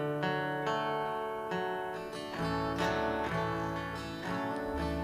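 Acoustic guitar strumming sustained chords, with a bass line entering about halfway through.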